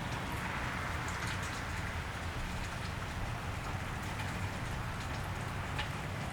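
Steady rain falling on a wet street, a continuous hiss with scattered individual drops ticking close by, over a low steady rumble.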